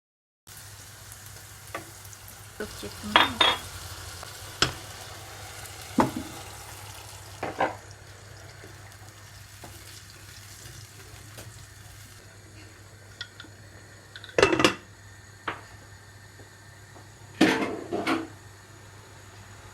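Kitchen utensils and cookware knocking and clinking: about eight separate sharp knocks and short clatters over a steady low hum, the loudest about three seconds in, around the middle and near the end.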